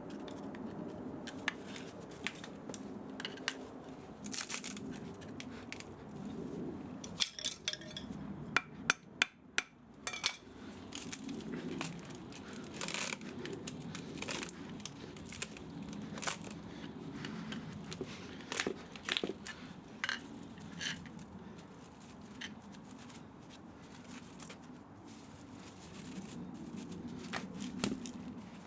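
Metal parts and hand tools clicking and clinking irregularly as an old spa pump motor is dismantled by hand for its copper and aluminium, with a quick run of sharper clicks about a third of the way in, over a steady low hum.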